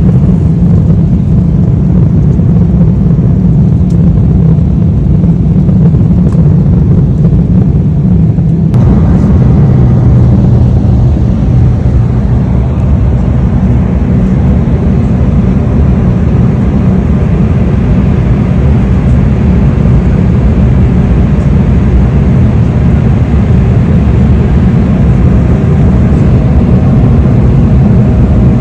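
Vehicle in motion: a loud, steady low rumble of engine, road and wind noise, which changes in tone about nine seconds in.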